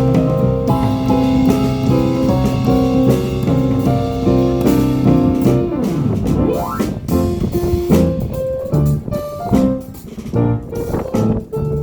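A small jazz band playing live: piano chords and melody with guitar and drum kit, and a quick run rising in pitch a little past the middle.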